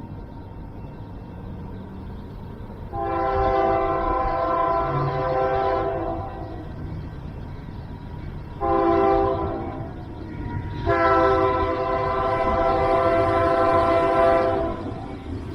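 Diesel locomotive air horn sounding three blasts, long, short, then long, over a steady low rumble of the train.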